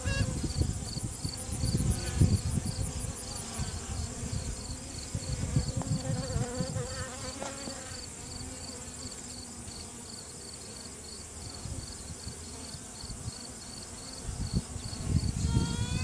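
Honeybee colony buzzing on a hive frame held in the open. Near the end a virgin queen starts piping: a long, trumpet-like tone that rises in pitch and then holds steady, a queen sounding off to assert her dominance.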